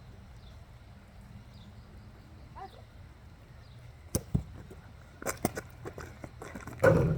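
Basketball bouncing on an outdoor court: quiet at first, then a few sharp thuds from about four seconds in, coming faster and loudest near the end.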